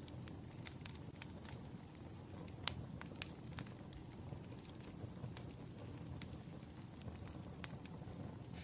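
Wood fire burning, with irregular sharp crackles and pops over a steady low rumble. One pop a little under three seconds in is louder than the rest.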